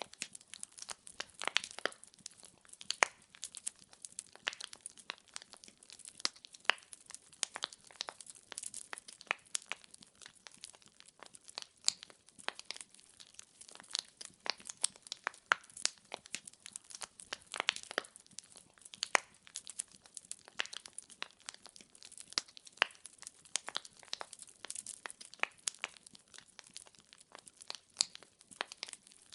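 Firewood burning in an open wood fire, crackling with a dense, irregular stream of sharp pops and snaps over a soft hiss.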